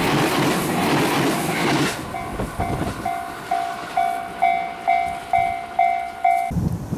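Series E353 limited express train running past, its rumble ending about two seconds in. Then a level-crossing warning bell rings about twice a second, about ten strokes, and stops suddenly near the end.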